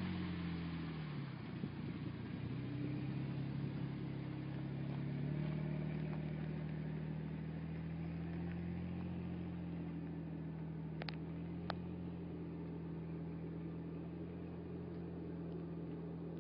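Jeep Wrangler Rubicon's engine running as it pulls away up a dirt hill trail, its pitch dipping and rising in the first few seconds, then holding steady while slowly fading.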